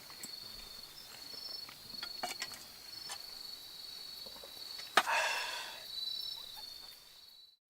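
Night insects trilling steadily at a high pitch. There is a sharp click about five seconds in, followed by a brief rustle, and the sound fades out near the end.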